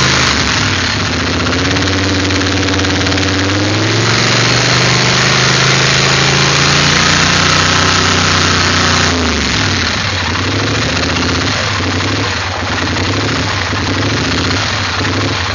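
Engine revved up and held at raised speed, then dropping back about nine seconds in to an uneven, pulsing idle: a rough idle.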